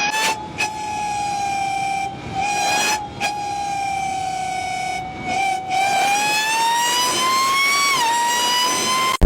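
A high whistling whine with one clear pitch and overtones. It holds steady with a few brief breaks, then climbs slowly, drops back suddenly about eight seconds in and starts climbing again.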